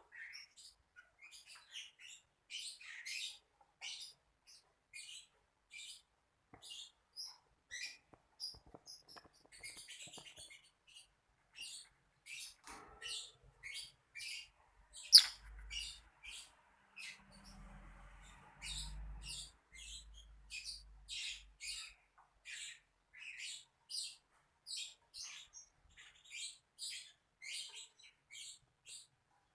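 Lovebird chirping: a long run of short, high chirps at roughly two a second. About halfway through comes one sharp sound, much louder than the chirps.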